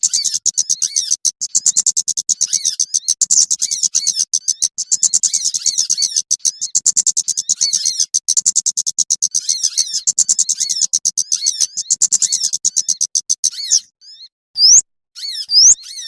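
Small songbirds chattering in a fast, dense stream of high notes, played as a bird-lure call. The chatter breaks off about 14 seconds in and is followed by two sharp upward-sweeping whistles.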